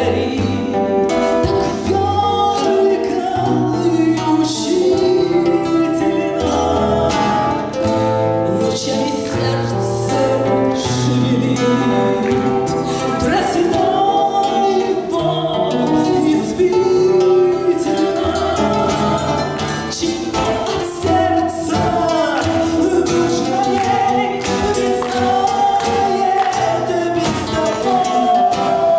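A woman singing a Russian romance, accompanied by acoustic guitars playing low bass notes and chords.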